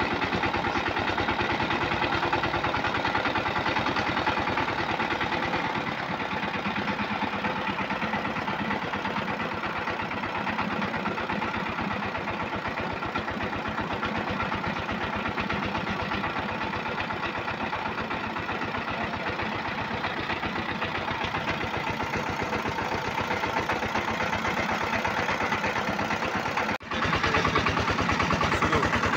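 Single-cylinder Changfa diesel engine of a bhutbhuti motor van chugging steadily while the loaded van drives along, with a momentary break in the sound near the end.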